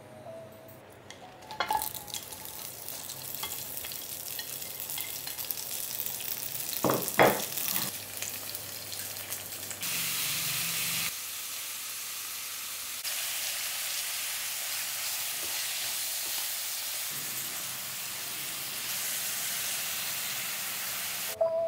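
Vegetables and sliced meat sizzling in hot oil in a pan on high heat as they are stir-fried with chopsticks. There is a sharp louder burst about seven seconds in, and the sizzle changes level in steps where clips are joined.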